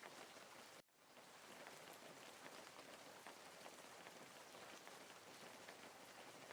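Faint steady rain with scattered patters of drops. Just under a second in it cuts out almost to silence, then fades back in, as at the seam of a looped rain track.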